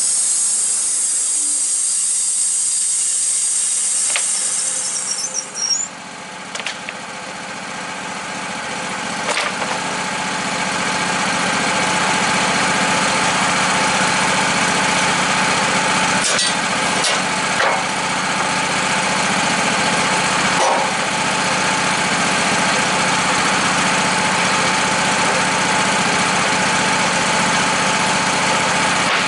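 An engine running steadily. A high hissing noise at the start dies away about five seconds in, and a few short knocks come through it later.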